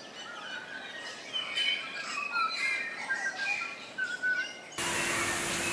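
Small birds chirping and twittering, with many short calls overlapping. About five seconds in, a steady hiss with a faint low hum cuts in suddenly.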